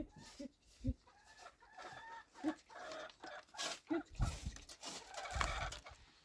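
Chickens clucking in short, broken calls, mixed with clicks and several dull knocks.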